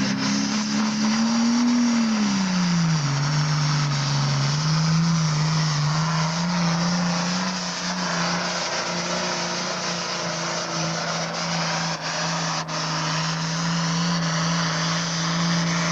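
Super farm pulling tractor's diesel engine running hard under load while pulling the sled. Its engine note climbs slightly, drops about two and a half seconds in, then holds steady.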